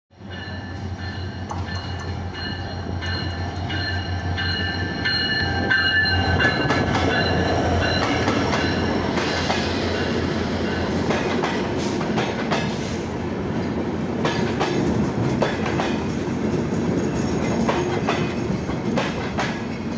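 A passenger express train arriving behind a diesel locomotive: a low steady engine hum with a high steady squeal as it brakes in. From about six seconds the coaches roll slowly past, rumbling louder with repeated clicks of wheels over rail joints.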